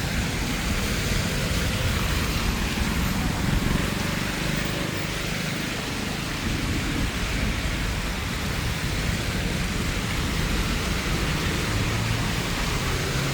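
Steady rain falling on a city street, an even hiss with a low rumble underneath.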